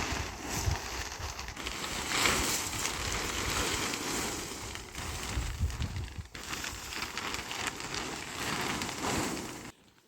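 Steady rustling and crackling noise with low rumbling gusts on the microphone, cutting off abruptly near the end.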